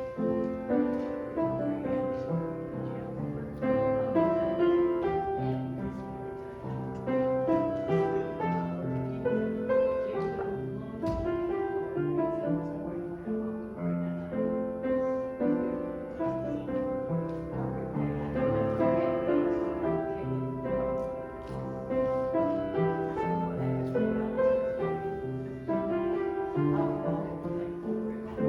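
Piano playing a church prelude: a worship song played in full chords under a melody.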